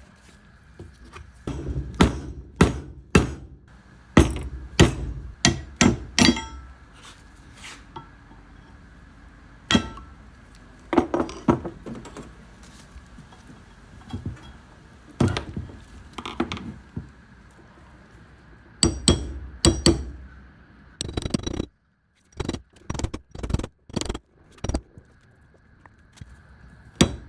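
Metal tools and parts clinking and knocking as they are handled during a brake job. The sharp clinks and thuds come at irregular intervals, with a faint steady high tone underneath.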